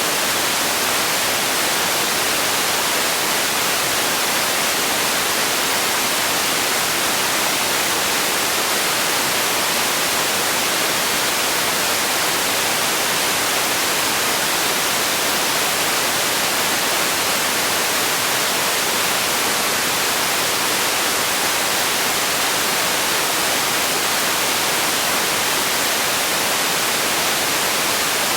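Steady synthetic noise for sleep: a constant, even hiss weighted toward the high end, unchanging throughout.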